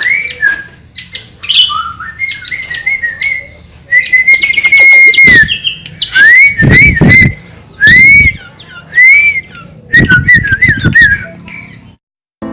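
Sooty-headed bulbul singing loud, clear whistled phrases, with rising slurred notes and quick chattering runs that copy white-rumped shama song. The song stops shortly before the end.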